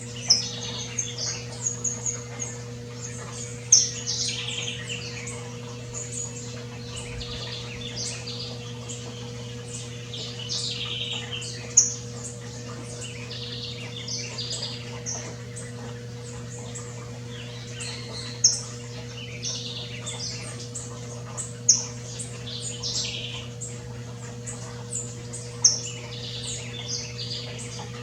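Saffron finch (canário-da-terra) singing: repeated short phrases of sharp, chirpy notes with brief pauses between them, over a steady low hum.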